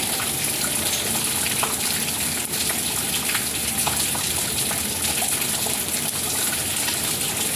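Rain falling steadily: a constant hiss of water with scattered sharper drop ticks.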